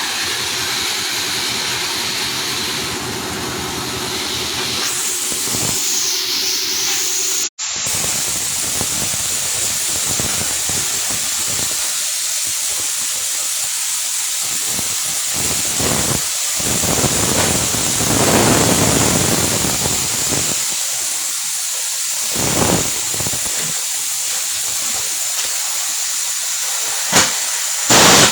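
Welding arc hissing and crackling steadily; it cuts out briefly once about seven and a half seconds in.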